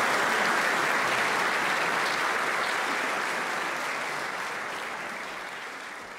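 Audience applauding, the clapping gradually fading away.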